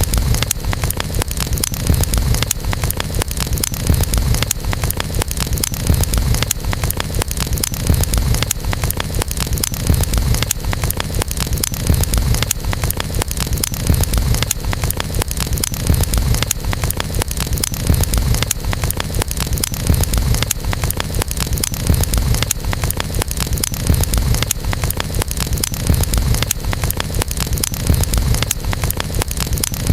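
Campfire burning, wood crackling and popping continuously over a low rumble of flames that swells about every two seconds.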